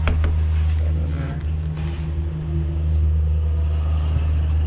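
A steady low hum, with a sharp click right at the start.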